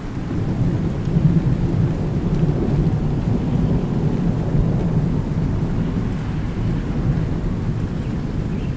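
Long, low roll of thunder over steady rain, swelling about a second in and rumbling on.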